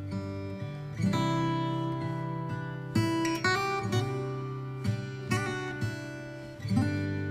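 Background music: acoustic guitar strumming chords, a new strum about every one to two seconds.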